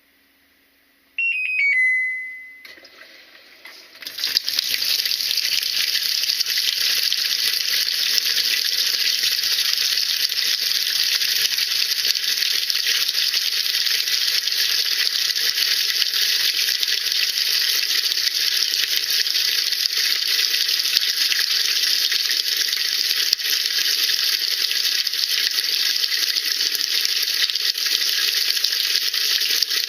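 Washing machine's control panel beeps a short run of quick tones ending in one held beep. About four seconds in, water starts rushing steadily into the drum as the tub-cleaning cycle fills.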